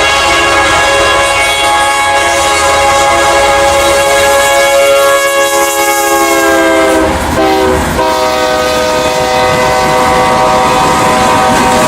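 A diesel locomotive's multi-chime air horn sounding one long chord as the train passes. The chord drops in pitch about seven seconds in, breaks briefly, then carries on at the lower pitch as the locomotive goes by.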